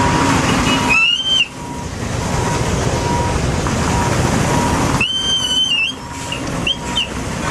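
Heavy truck engine running steadily, with two short, high whistle blasts, one about a second in and a longer one about five seconds in, followed by two brief chirps near the end.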